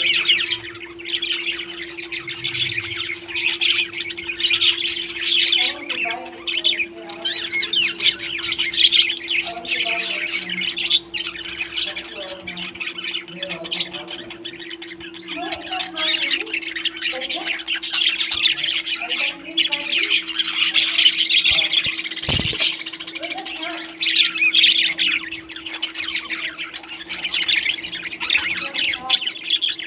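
Many small parrots chattering, with dense overlapping chirps and squawks that go on without a break. A steady low hum runs underneath, and there is a single thump about 22 seconds in.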